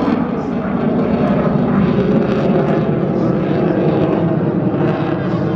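Airplane engine running loud and steady.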